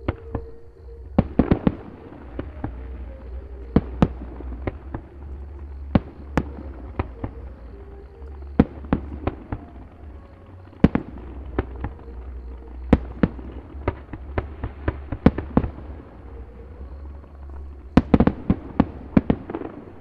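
Fireworks display: aerial shells bursting in a steady run of sharp bangs over a low rumble. Quick clusters of crackling reports come about a second in and again near the end.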